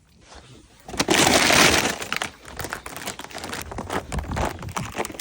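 Ice glaze cracking and breaking: a loud crackling burst about a second in, then irregular crunching crackles, as of footsteps breaking through ice-crusted snow.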